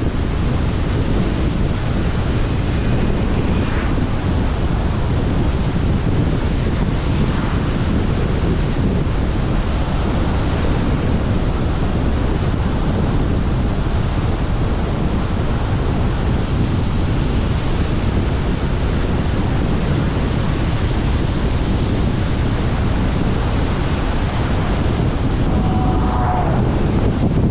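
Steady, loud rush of wind buffeting the microphone together with road noise from a moving car.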